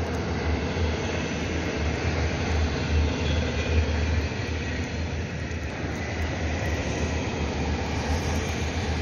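Distant high-speed train running along the line, a steady rushing rumble with no clear rise or fall.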